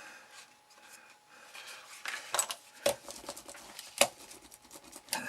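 Card and small tools being handled on the bench: light rustling with a few sharp taps and clicks, starting about two seconds in, the sharpest about three and four seconds in.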